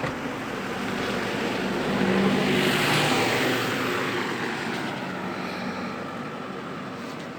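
A vehicle passing by, its engine and rush growing louder to a peak about three seconds in, then slowly fading away.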